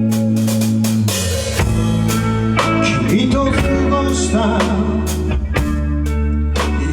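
Live rock band playing: electric guitar and bass holding chords that change every second or two, over a drum kit with frequent snare and cymbal hits.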